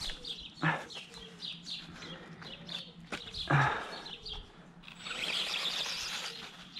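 Small birds chirping repeatedly in short, quick calls, with two brief louder sounds about a second in and again past the middle.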